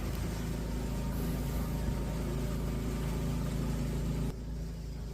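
Speedboat engine running steadily under way, a low hum beneath a broad rushing hiss. About four seconds in the hiss drops away suddenly, leaving the hum.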